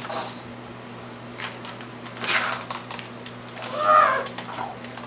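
Plastic toy pieces knocking and clicking together in a few short bursts, with a brief wavering vocal sound from a child about four seconds in.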